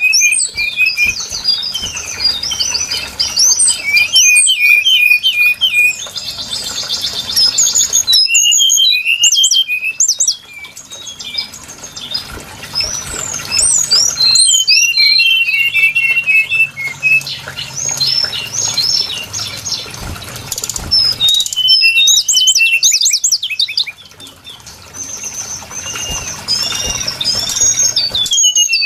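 Brown-chested jungle flycatcher song played as a bird-lure recording: dense high chirps, whistled notes and rapid twittering trills. The passages change abruptly several times, like a spliced or looped recording.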